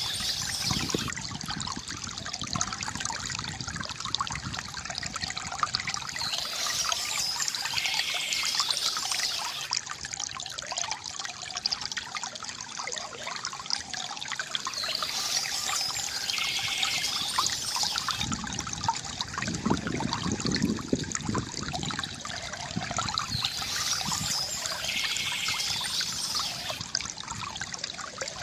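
Water trickling and splashing steadily from a bamboo fountain spout into a basin, with a dense patter of small droplets.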